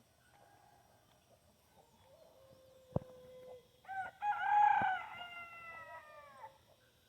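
A rooster crowing once: a long call starting about four seconds in that bends and trails off downward at the end, with a fainter drawn-out note and a sharp click just before it.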